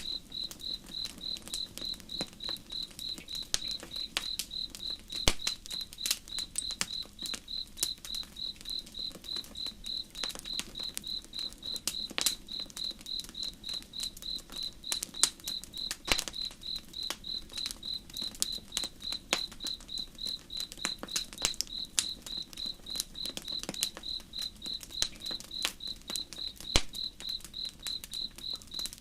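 Crickets chirping steadily at about two to three chirps a second, over a campfire crackling and popping with frequent sharp snaps, a few louder than the rest.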